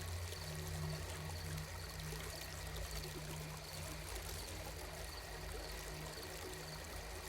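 Sleep soundscape of gently flowing water over a low, steady drone, with a faint high chirp repeating at regular intervals.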